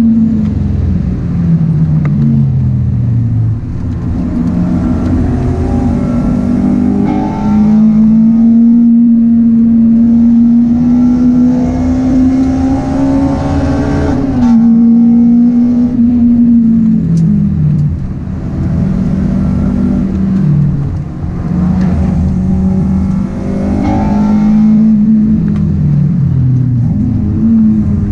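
Honda Integra DC5's 2.0-litre four-cylinder, with an aftermarket intake and full exhaust with sports cat, heard inside the cabin being driven hard on track. The engine note climbs steadily under acceleration, then falls away three times as the car lifts off and brakes for corners, before picking up again.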